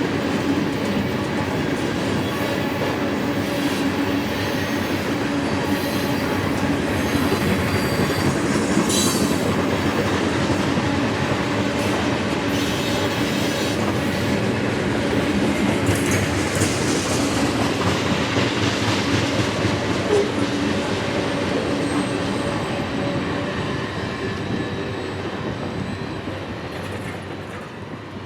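Freight train cars rolling past, wheels clicking over the rail joints, with a few brief high-pitched wheel squeals. The sound fades in the last few seconds as the train moves away.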